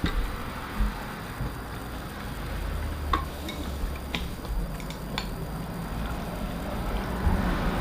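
A few light, sharp clicks, about three to five seconds in, from eating clams at the table: shells or utensils tapping. A low steady rumble runs underneath.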